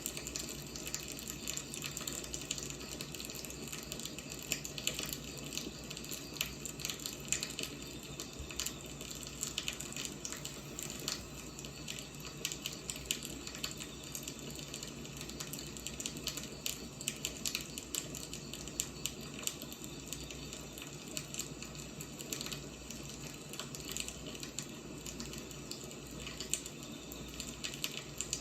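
Firewood burning, with dense, irregular crackling and popping over a steady low hiss of the fire.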